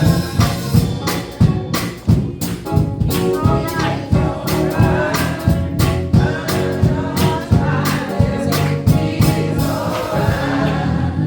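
Gospel choir singing with band accompaniment over a steady beat of drum hits; the drums stop near the end while the singing and instruments carry on.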